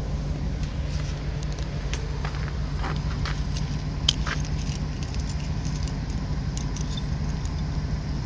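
A vehicle engine idling steadily with a low, even hum, with light scattered clicks and rustles over it.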